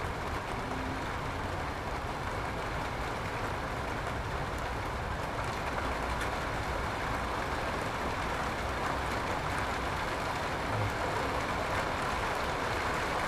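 Steady rain, really coming down, an even hiss with no break.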